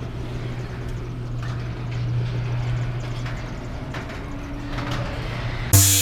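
A steady low mechanical hum with a few scattered knocks, then music with drums starts suddenly near the end.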